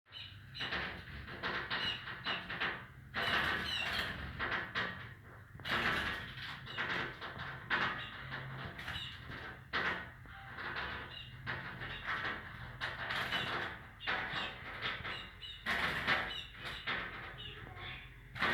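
A small bird tapping and fluttering against a mirror at its own reflection, which it takes for a rival bird: irregular taps and wing flutters with a few short chirps.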